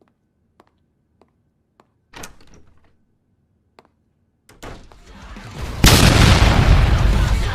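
Faint clicks, a short crash about two seconds in, then a loud roar that builds and surges sharply about six seconds in. These are dramatic sound effects, with music likely entering near the end.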